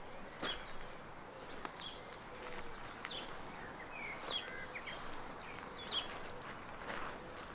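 Small birds chirping, with short high notes scattered throughout, over faint outdoor background noise and soft footsteps.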